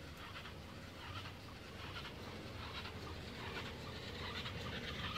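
Birds chirping in the trees over a low steady rumble, with the chirps scattered irregularly and slightly louder near the end.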